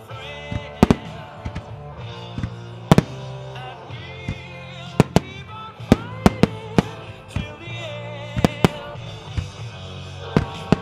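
Aerial fireworks going off in a string of about fifteen sharp bangs, some in quick pairs, over a song with a singer and a steady bass accompaniment.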